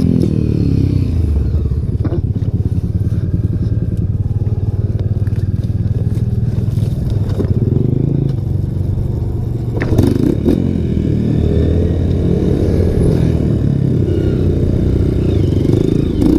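Single-cylinder trail motorcycle engine running at a steady pace on a dirt trail, with a few knocks and clatters from the bike over rough ground about ten seconds in.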